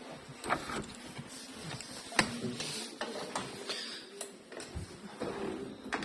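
Chevrolet Gentra's electric sunroof running: the small motor drives the panel, with scattered clicks and knocks from the mechanism.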